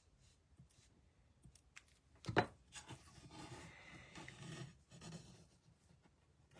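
A sharp knock on the work surface, then card stock and paper being handled with rustling and rubbing for a couple of seconds.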